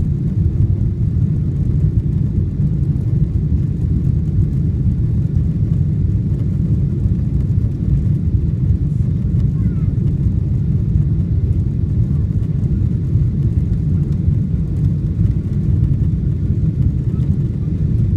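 Steady low rumble of a Boeing 777-300's jet engines and rushing air, heard inside the passenger cabin as the airliner climbs after takeoff.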